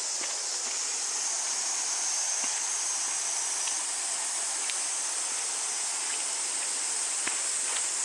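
Steady forest ambience dominated by an even, high-pitched cicada chorus, with a few faint clicks.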